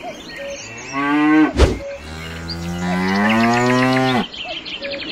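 A cow mooing twice: a short moo about a second in, then a long moo that rises and falls. A sharp click sounds between the two.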